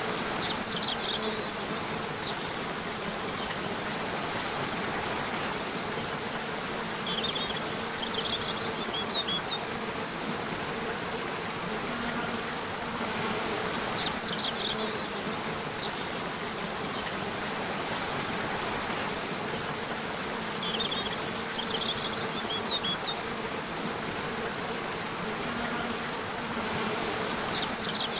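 Nature soundscape: a steady rushing hiss like a stream, under a buzzing hum of flying insects such as bees that swells and fades, with short high chirps recurring every several seconds.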